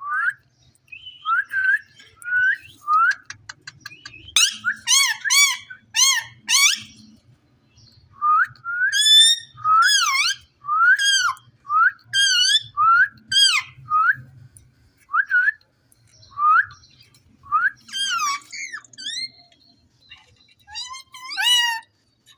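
Ringneck parakeet whistling: a long run of short chirping whistles that rise and fall in pitch. Louder, harsher calls come in bursts about four to seven seconds in and again from about nine to fourteen seconds.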